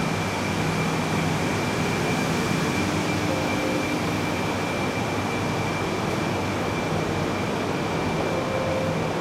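Steady hum of a Shinkansen train standing at the platform, its onboard equipment running, with a thin high whine held throughout.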